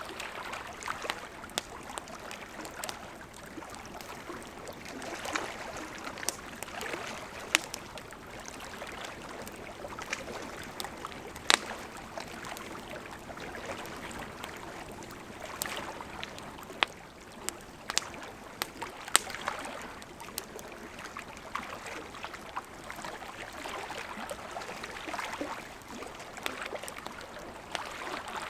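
Wood fire crackling with irregular sharp pops, a few of them much louder, over the steady rush of a gently flowing river.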